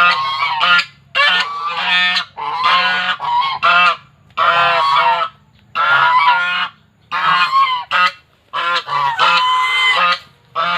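Swans honking: loud, repeated nasal honks in clusters, with short pauses between the clusters.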